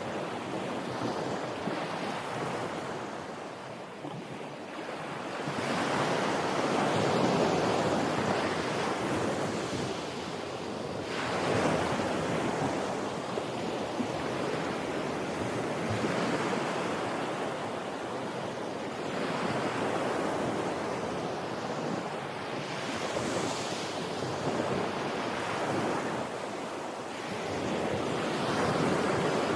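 Sea waves breaking and washing ashore in surges a few seconds apart, with wind on the microphone.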